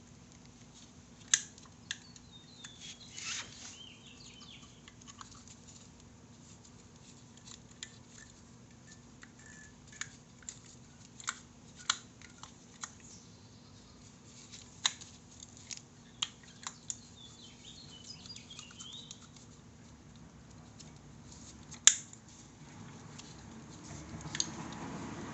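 Scattered sharp clicks and light taps of tools and small metal parts being handled during motorcycle front brake pad work, with a faint chirping now and then.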